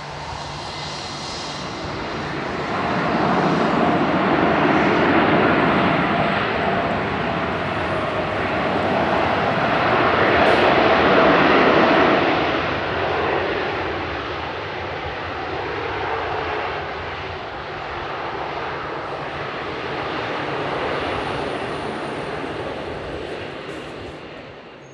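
Jet engine noise of an Airbus A321-200 airliner landing, a dense rush that swells twice and then fades away near the end.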